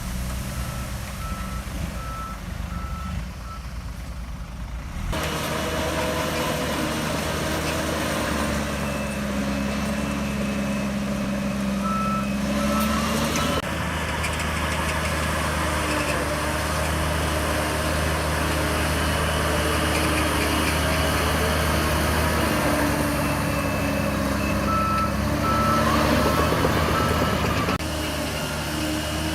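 Shantui DH17C3 bulldozer's diesel engine working, its pitch rising and falling with the load. A reverse alarm beeps in short runs three times: near the start, about halfway through and near the end.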